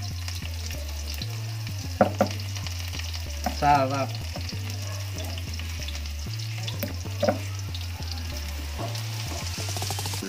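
Chopped garlic and shallots sizzling steadily in hot oil in a wok, with two brief sharp clicks, about two seconds in and about seven seconds in.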